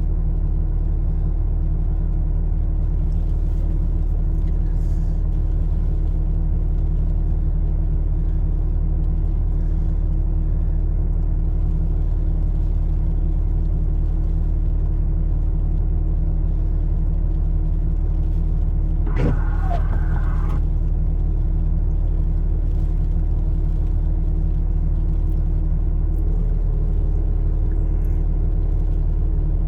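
Vehicle engine idling steadily, heard from inside the cab, with a brief higher-pitched sound about nineteen seconds in.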